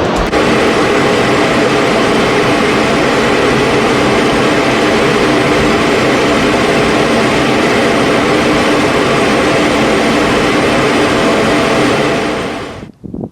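Loud, steady jet roar of F-16 fighter jets passing overhead in a flyover, cutting off suddenly near the end.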